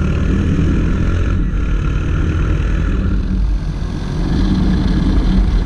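Honda CG 160 Titan motorcycle's single-cylinder engine running under way, with steady road and wind noise; it picks up a little about four seconds in.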